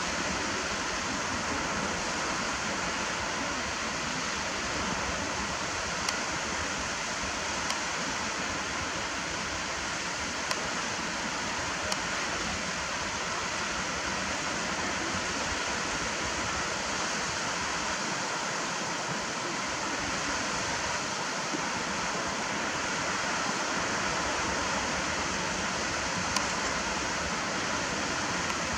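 Steady, even rushing of waves on the shore, with a few faint clicks.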